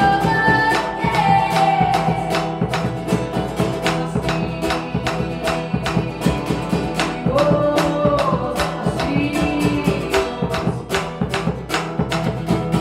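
A live band playing an instrumental passage: a guitar strummed in a quick, even rhythm under held and gliding melody notes.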